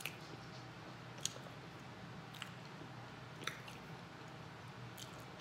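Faint close-up chewing of soft food such as macaroni and cheese, with a few short, sharp mouth clicks spread through the chewing.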